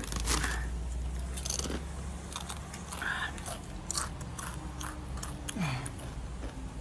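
Someone biting and chewing crunchy chips, with irregular crunches.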